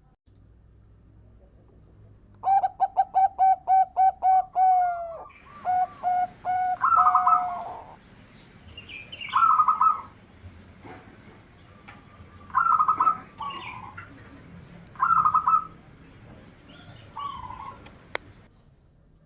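Zebra dove (perkutut) singing: a quick run of about ten short, evenly spaced cooing notes, then a few more notes, followed by separate short cooing phrases every two to three seconds. A single sharp click comes near the end.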